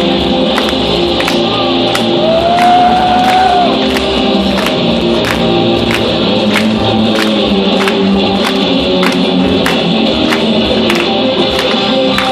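Instrumental rock music: electric lead guitar over a steady drum beat of about two hits a second, with a long held guitar note bent upward about two seconds in.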